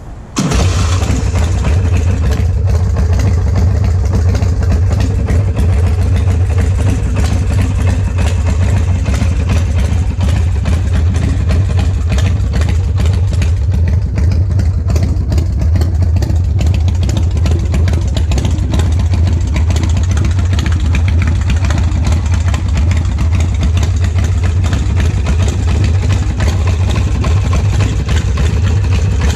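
2003 Vengeance Motorcycles Warrior softail chopper's V-twin engine catching about half a second in, then idling loudly and steadily without revving.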